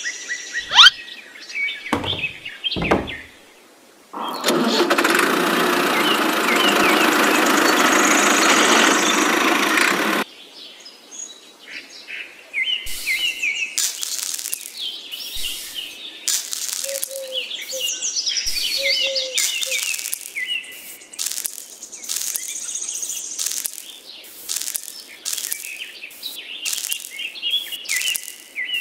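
A loud, even rushing noise starts suddenly about four seconds in and cuts off about six seconds later. After it, birds chirp repeatedly, mixed with many short sharp clicks.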